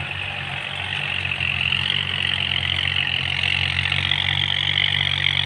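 Kubota tractor tilling a flooded rice paddy with its rotary tiller: a steady engine drone with a higher churning hiss on top, growing louder from about a second and a half in.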